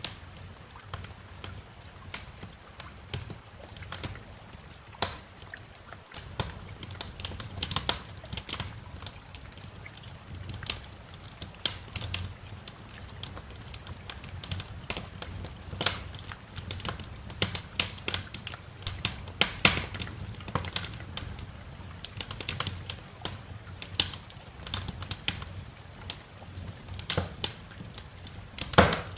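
Wood fire crackling, with sharp irregular pops that come thicker after the first several seconds, over a steady low rumble.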